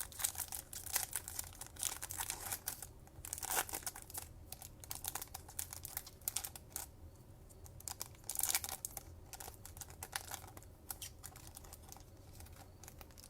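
Foil wrapper of a trading-card pack crinkling and tearing as it is opened, with cards being handled: a run of crackles and clicks, louder in bursts near the start, about three and a half seconds in and around eight and a half seconds.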